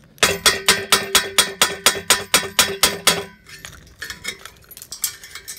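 Hammer blows on a welded-on exhaust tip, trying to knock it off: about a dozen quick metallic strikes with a ring, about four a second, then a few lighter taps near the end.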